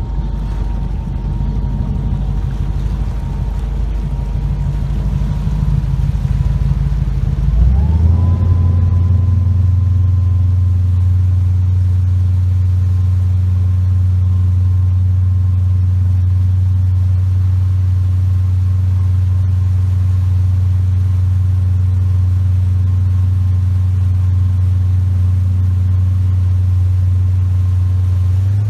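Inboard 351 Windsor V8 of a Supra ski boat running. About eight seconds in it revs up, then holds a steady higher speed.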